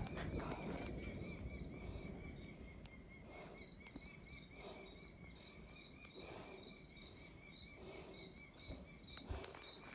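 Crickets chirping steadily in a fast, even pulsing trill.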